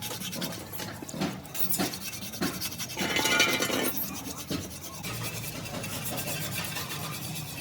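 Rubbing and scraping with scattered knocks, with a louder rasping stretch lasting about a second near the middle.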